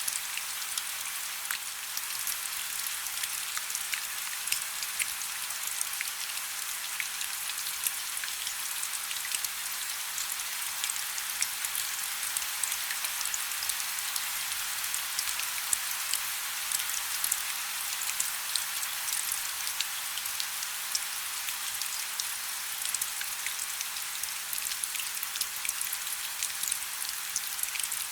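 Steady rainfall: a constant hiss with many separate drops pattering on a surface.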